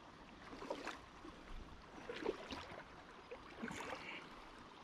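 Faint, irregular small splashes and trickling of shallow river water over a shoal.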